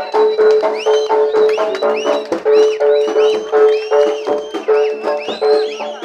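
Jaranan traditional music played live: fast, evenly paced drum strokes under a repeated pitched note, with high tones gliding up and down over it.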